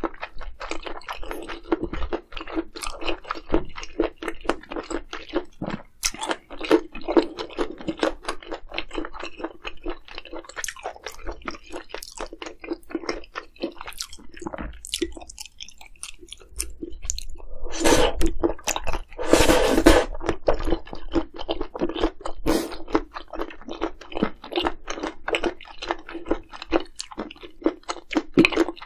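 Close-miked chewing: rapid wet crunching and smacking of a mouthful of food, with a louder, noisier stretch about 18 to 20 seconds in.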